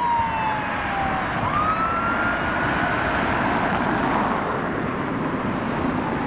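Fire engine siren wailing: a slow falling sweep, then a rise a little over a second in that fades away, over steady traffic noise.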